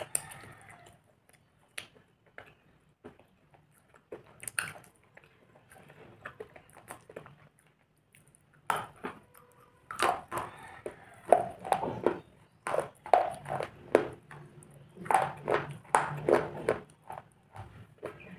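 Close-up mouth sounds of chewing black slate into a paste: scattered wet clicks and crunches at first, then a fast run of loud crunchy chews from about nine seconds in.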